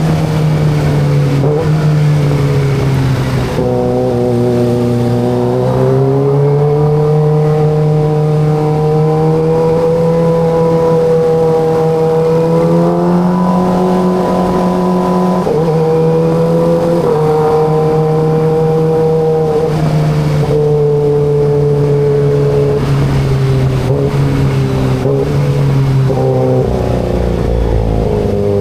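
Kawasaki ZX25RR's 249 cc inline-four engine running at steady cruising revs while riding. The engine note holds level for long stretches and dips and rises gently a few times as the throttle and gears change.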